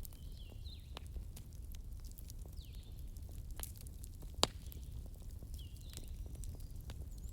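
Bonfire crackling: a steady low rumble with scattered small pops and one loud pop about halfway through. Short falling chirps recur every second or two over it.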